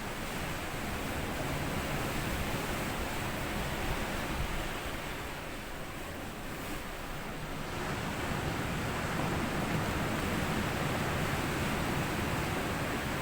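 Sea waves washing up and back over a sandy shore in a continuous rushing surf. It eases briefly about six seconds in and builds again.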